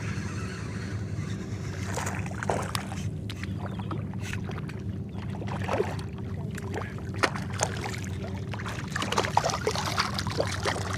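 A boat's motor running steadily, with scattered splashes and knocks of water against the hull that come more often near the end.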